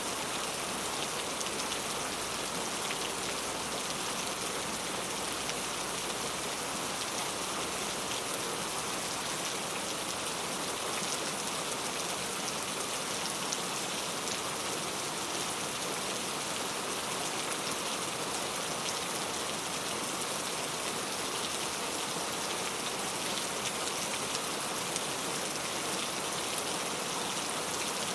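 Heavy rain falling steadily, a dense even hiss with fine, close-spaced patter of drops striking hard surfaces.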